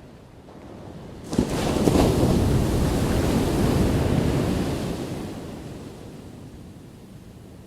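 A single ocean wave crashing: a sudden crash about a second in, then the wash of surf that slowly fades away over the next few seconds.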